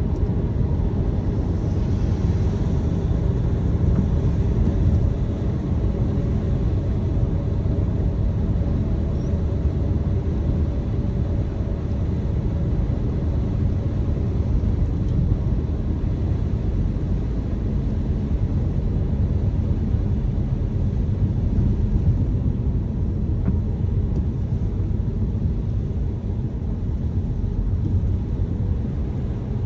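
Car driving at a steady pace: continuous low rumble of engine and tyres on the road, with no sudden changes.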